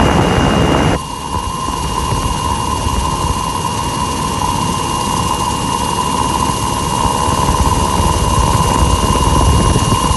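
Rescue helicopter running, a steady turbine whine over the low chop and rumble of the rotors. A louder rush of noise covers about the first second.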